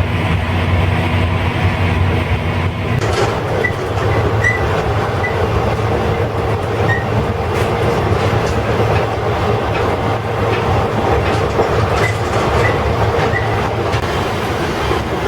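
Train of JR 12 series passenger coaches running along the rails, a steady rumble of wheels and track with some clickety-clack. A low steady hum drops out about three seconds in, and brief high wheel squeaks come a few times.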